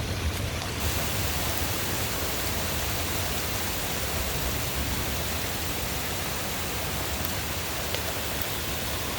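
Steady heavy rain falling during a thunderstorm: an even, unbroken hiss with no distinct thunderclap.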